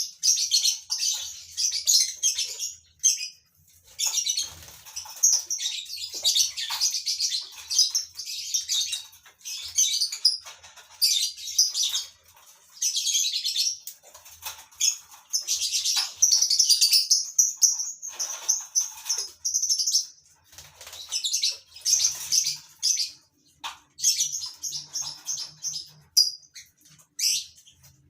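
Colony of lovebirds chattering: dense, shrill, high-pitched chirping in runs of a few seconds with short breaks, including one longer unbroken run about two-thirds of the way through.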